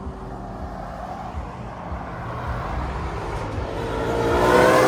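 Car engine rumbling low, then a car accelerating hard near the end, its engine revving up and growing loud.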